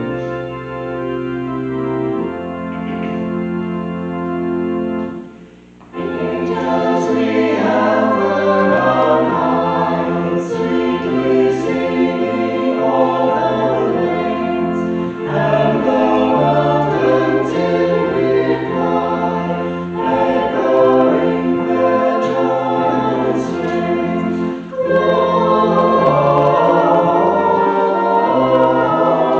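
Church organ playing a short hymn introduction in held chords, then a choir comes in singing the hymn with the organ about six seconds in.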